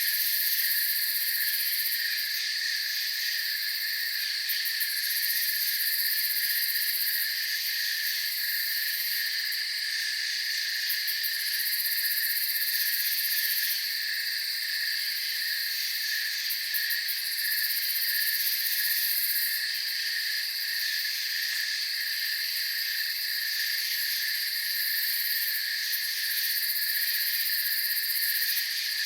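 Night chorus of crickets chirping steadily in several overlapping pitches, with a higher, shrill trilling that swells and fades every few seconds.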